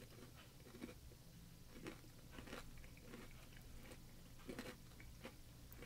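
A person chewing a small crunchy snack with the mouth closed: faint, irregular crunches every half second or so.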